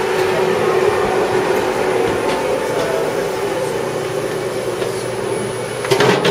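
Spray-painting equipment running steadily, a continuous mechanical noise with a steady hum. A sharp knock comes near the end.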